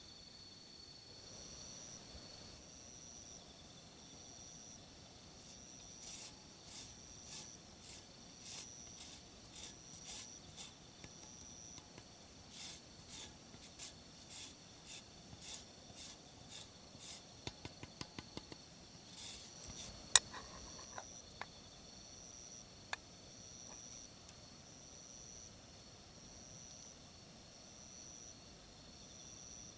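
Insects singing in short, evenly repeated high pulses. Over them, from about six seconds in, comes a run of short rustling or scraping strokes, followed by a few sharp clicks; the loudest click is about twenty seconds in.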